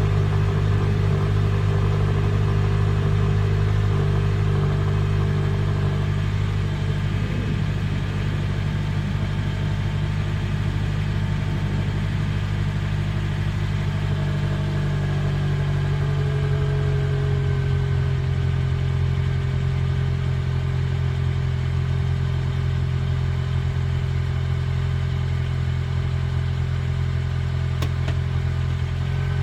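Acura TSX exhaust with the mid-muffler and resonator replaced by a straight pipe, idling steadily on a cold start. The idle pitch drops slightly about six seconds in and again gently around the middle, as the fast cold idle settles.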